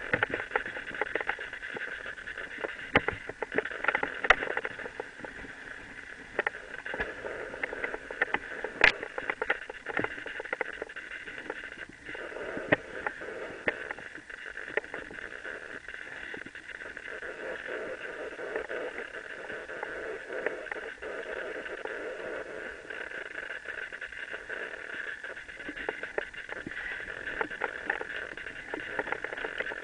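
Mountain bike rolling over a dirt trail: a steady hiss of tyres and wind with the bike rattling, and sharp knocks now and then, the loudest about nine seconds in.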